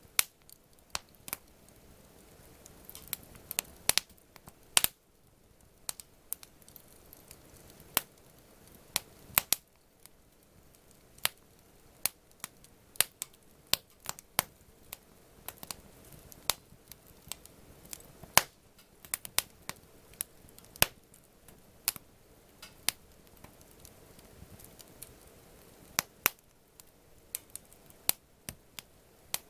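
Wood campfire crackling: sharp, irregular pops and snaps, some loud and some faint, over a quiet steady hiss of burning wood.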